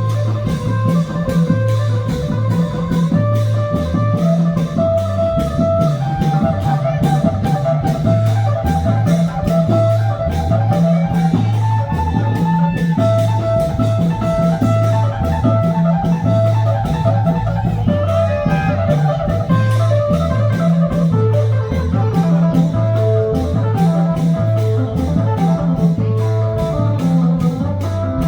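Festive Thai band music: a fast, even drum beat with a repeating bass line under a sustained, shifting melody.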